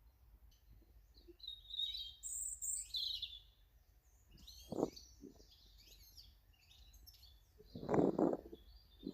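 Small garden birds chirping in short high calls, in two spells, with a dull thump about five seconds in and a louder one near the end.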